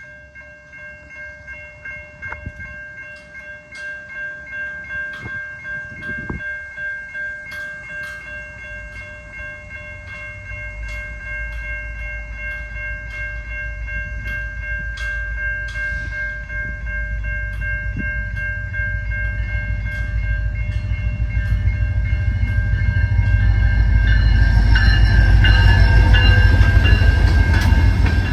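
An EMD SD40-2 diesel locomotive hauling a freight train approaches, its engine rumble growing steadily louder and loudest near the end as it draws close. Steady high tones and scattered clicks sound over it.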